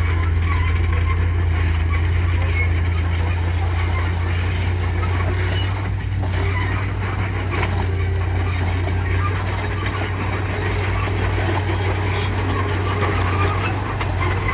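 Heavy diesel earth-moving machinery running with a steady low engine drone, with scattered short high-pitched squeaks over it.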